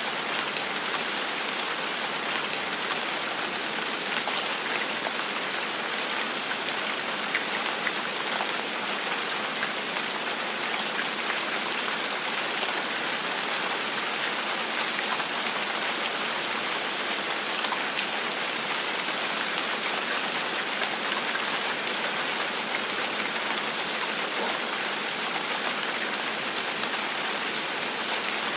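Steady gentle rain falling on a surface, an even hiss with scattered small drop ticks.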